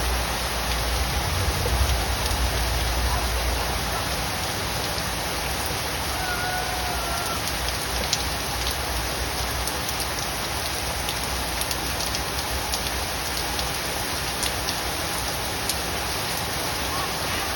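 Heavy rain falling steadily, with scattered drops striking close by.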